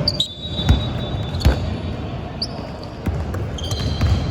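Basketball bouncing on a gym's hardwood court, a few separate thumps, amid the steady noise of the hall and a few short high-pitched squeaks.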